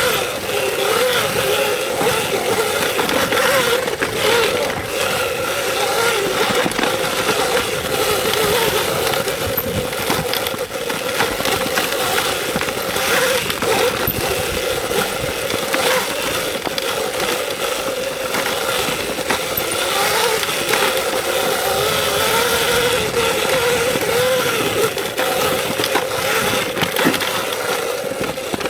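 Electric dirt bike's motor whining, its pitch wavering up and down as the throttle changes, over a steady rushing noise with occasional knocks from riding over the trail.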